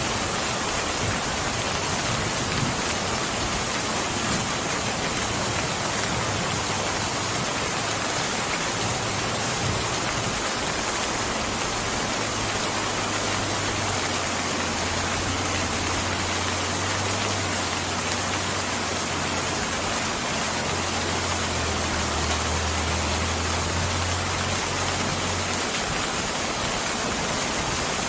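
Rain falling steadily in an even hiss. A low rumble comes in a few seconds in, grows through the middle and fades near the end.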